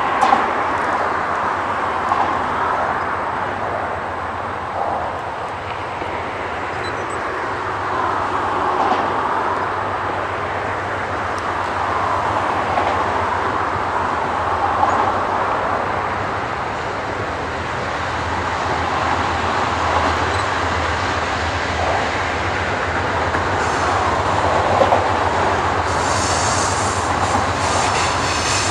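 Freight train with a CSX diesel locomotive approaching slowly: steady engine rumble and rolling wheel noise on the rails. High-pitched wheel flange squeal sets in near the end as the cars work through the curve.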